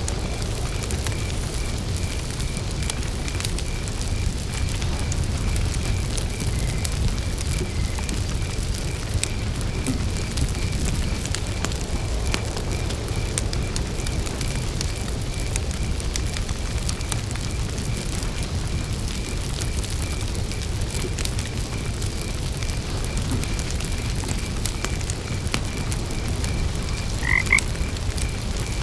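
Campfire burning with a low rumble and scattered crackles, while frogs croak in an evenly pulsed call. A brief, louder call stands out near the end.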